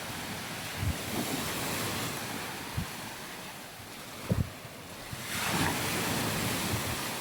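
Waves washing onto a sandy beach, one wash swelling about five seconds in, with wind buffeting the microphone in short low thumps.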